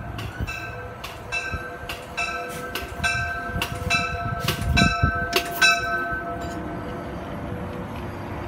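Amtrak push-pull train rolling past the platform cab car first, with a steady high ringing tone and a quick run of sharp ringing strikes, about three a second, that stop about six seconds in. A low thump about five seconds in is the loudest moment.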